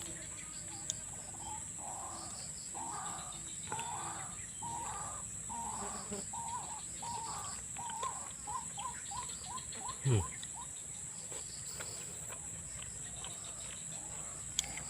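Tropical forest ambience with a steady high insect drone, over which a bird gives a long series of notes that come faster and shorter as it goes on, ending about ten seconds in. Near the end of the series there is a brief downward-sliding sound, the loudest thing here.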